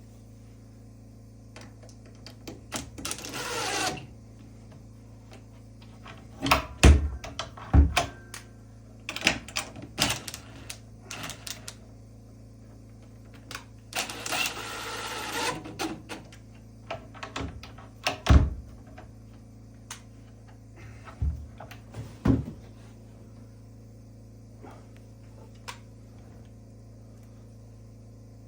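Woodworking handling sounds: irregular knocks and clunks of wooden pieces and tools, with two brief scraping or rasping strokes, over a steady low hum.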